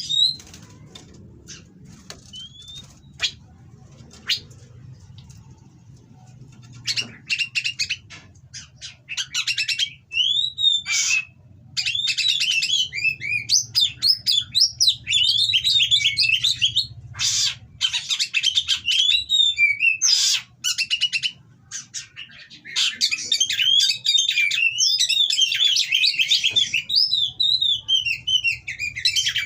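Oriental magpie-robin (kacer) singing a loud, fast, varied song of whistles and chattering phrases mixed with harsh rasping notes. It starts sparse and becomes dense after about seven seconds.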